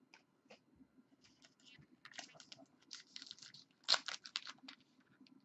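Trading cards being handled and flipped through, a string of short crisp rustles and snaps, the loudest about four seconds in.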